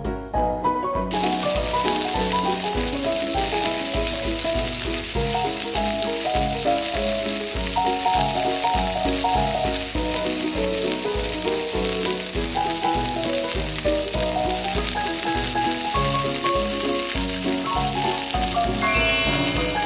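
A breaded patty sizzling steadily as it fries in hot oil in a tiny metal pan, the sizzle starting about a second in as it goes into the oil. Background music with a steady beat plays throughout.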